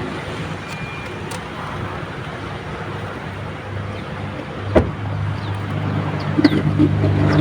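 Pickup truck's diesel engine running with a steady low hum that grows louder through the second half. A single sharp knock comes about five seconds in.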